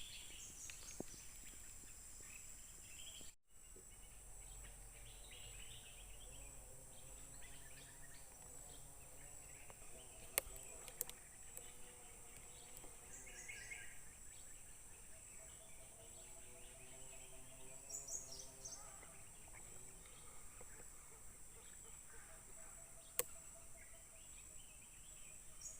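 Faint oil palm plantation ambience: a steady high insect drone with scattered bird chirps, and a few sharp clicks.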